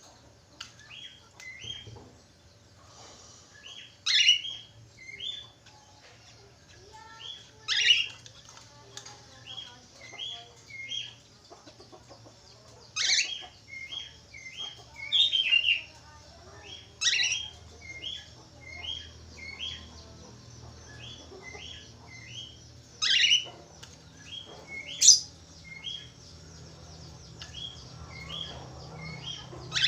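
Budgerigar (Australian parakeet) chirping: runs of short repeated chirps, broken every few seconds by a loud, sharp call that sweeps down in pitch, about six in all.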